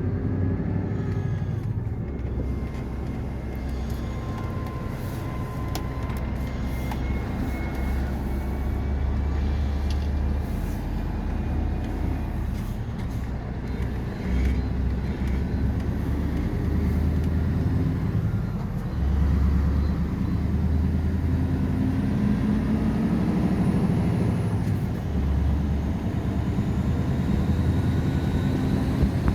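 Scania R520 truck's V8 diesel engine running, a deep rumble that swells and eases in level.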